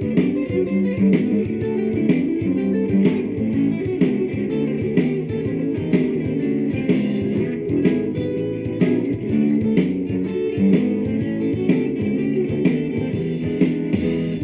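Lava ME 4 guitar playing a classic blues over a looped backing, heard through effects pedals: continuous plucked notes and strums with a bass line underneath.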